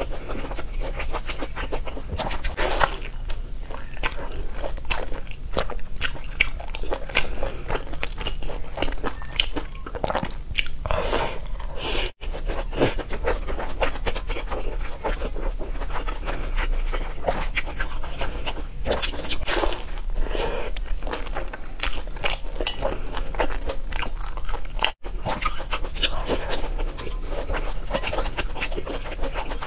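Close-miked biting and chewing of pan-fried buns, a dense run of small crunchy, crackly clicks. The sound is broken twice by a split-second gap.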